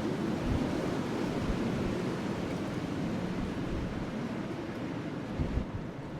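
Wind blowing steadily around a burning wood fire, with a few low gusts buffeting the microphone.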